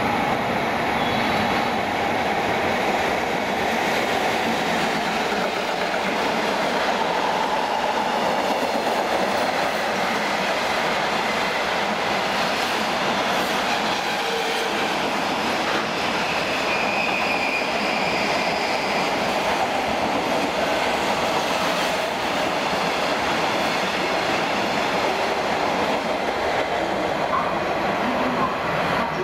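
A JR Freight container train hauled by an EF210 electric locomotive passes close by. The wheels of the loaded container wagons make a steady rolling noise on the rails.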